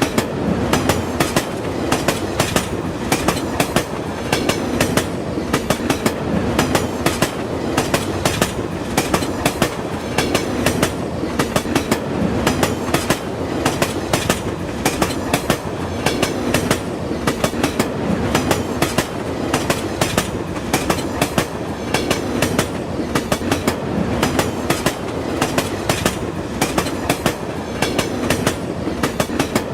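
Train wheels clattering over the rail joints in a fast, steady clickety-clack over a continuous running rumble.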